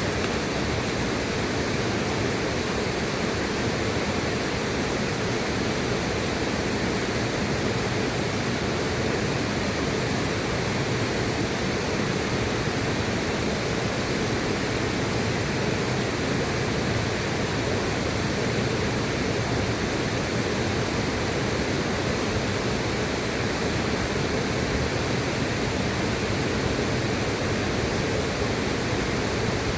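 River water rushing, a steady even noise that does not change.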